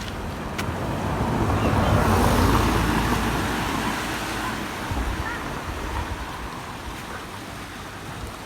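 Sea wave breaking and washing in: a broad rush that builds to a peak a couple of seconds in, then slowly fades, with wind rumbling on the microphone.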